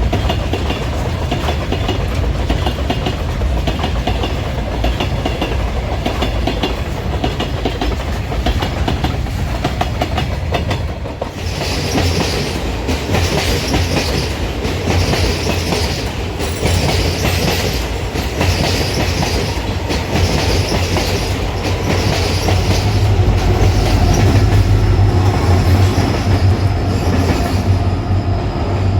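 Railway train running past, wheels clattering rhythmically over the rail joints above a steady low rumble. About eleven seconds in the sound changes abruptly and turns brighter, with a regular beat of wheel clatter.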